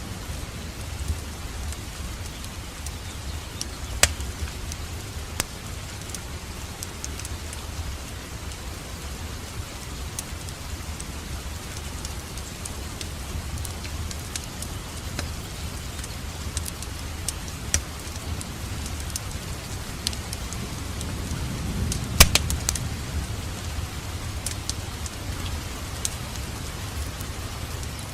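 Wood fire burning in a fireplace: a steady low rumble and hiss with scattered sharp crackles and pops, the loudest about four seconds in and a quick cluster of pops a little past the middle.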